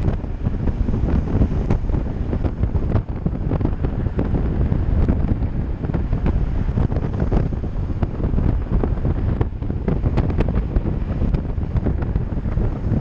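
Wind buffeting the microphone of a camera on a moving bike: a heavy, unsteady low rumble, with scattered short clicks and knocks throughout.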